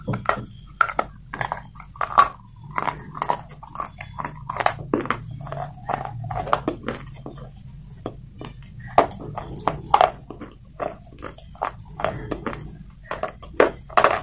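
A slate pencil being bitten and chewed close to the microphone: a run of sharp, dry crunches, irregular and several a second.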